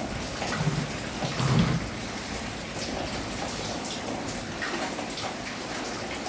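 Steady rain falling, with many separate drops striking a surface. Two louder low rumbles come in the first two seconds.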